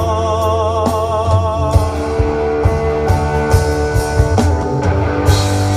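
Live pop-rock band playing an instrumental passage between sung lines: drum kit, bass, guitars and keyboard. A long held note wavers in pitch for the first two seconds.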